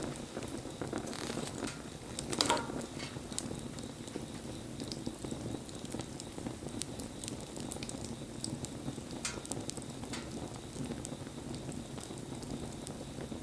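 Wood fire burning with a steady low hiss of flames and scattered crackles, one louder pop about two and a half seconds in.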